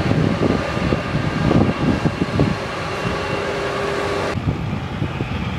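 A tugboat engine running with a steady low rumble. The hiss above it drops away suddenly about four seconds in.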